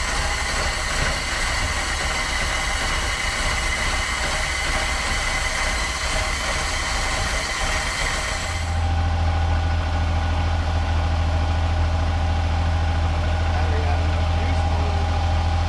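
1982 Chevrolet truck's 4.1-litre inline-six engine running steadily, freshly started after sitting for years. About eight and a half seconds in, the sound changes abruptly: the higher noise drops away and a strong, steady low hum takes over.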